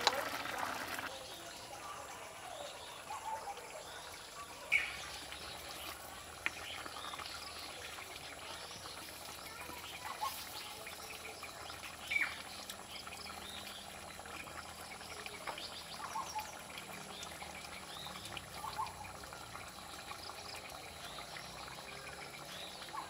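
Quiet outdoor ambience: a faint steady background with a few short bird calls scattered through it, the clearest about five and twelve seconds in.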